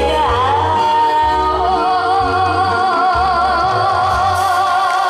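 Live song with backing band: a singer glides down into a long held note with wide vibrato, over sustained accompaniment and an on-and-off bass.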